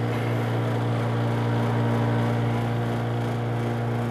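Ice-O-Matic ICE1406 ice machine running with a steady low motor hum.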